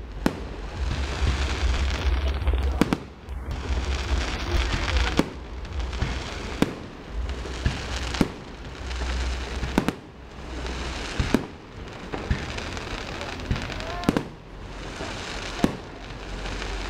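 Fireworks display: aerial shells bursting in the sky, with a sharp bang about every one and a half seconds.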